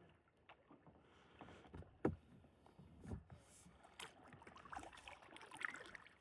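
Quiet kayak paddling: paddle strokes and water drips, with a sharp knock about two seconds in and a few softer knocks after.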